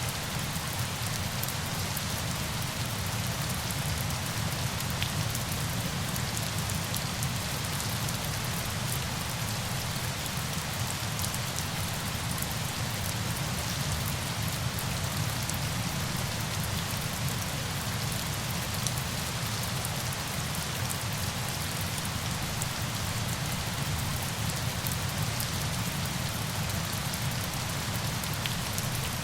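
Steady rain: an even hiss with a low rumble underneath and scattered sharp drop ticks, unchanging throughout.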